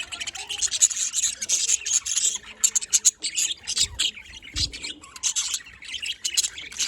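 Budgerigars chattering, a dense run of rapid, overlapping high chirps and squawks, with a brief low bump near the middle.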